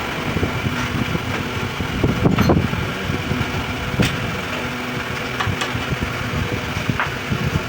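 A steady mechanical running hum with a few sharp clicks and knocks scattered through it.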